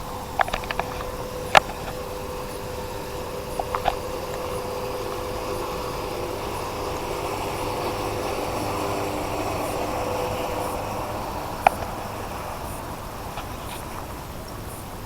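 A motor running steadily with a held hum that grows louder through the middle and then eases off, punctuated by a few sharp clicks in the first few seconds and one more near the end.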